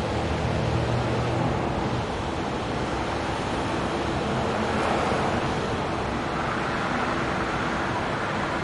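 Passenger train cars rolling slowly across a steel trestle bridge: a steady rumble of wheels on the bridge, with a low hum that fades about two seconds in.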